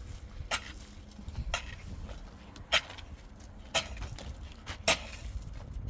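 A series of sharp knocks, six in all, roughly one a second, over a low background rumble.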